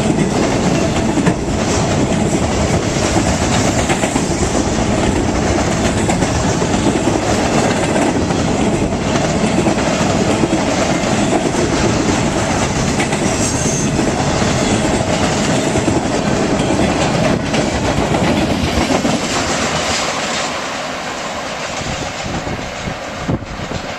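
BNSF intermodal freight train rolling past, with a steady rumble and wheels clacking over the rail joints. It eases off somewhat near the end.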